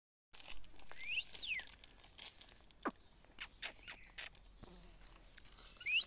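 A bird gives short high calls that rise then fall in pitch, one about a second in and another near the end. A few sharp clicks come in between.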